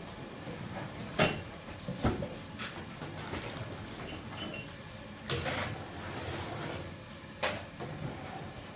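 Household clatter: about five sharp knocks and clinks spread over several seconds, the loudest about a second in.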